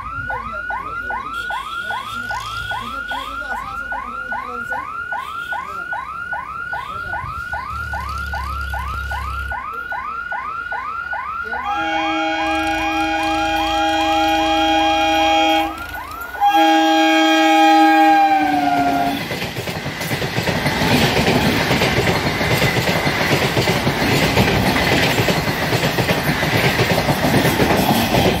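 A warbling siren-like tone repeats about three times a second. Then an EMU local train's horn sounds two long blasts, the second dropping in pitch at its end. The train then passes close by at speed with a loud rumble and clatter of wheels on rails.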